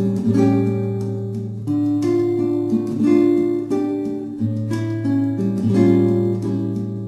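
Acoustic guitar music: plucked and strummed notes changing every second or so over a held low bass note.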